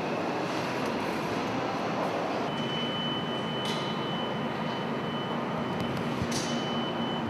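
Steady mechanical noise, even and unbroken. A thin high-pitched whine joins about two and a half seconds in, and two brief sharp clicks stand out.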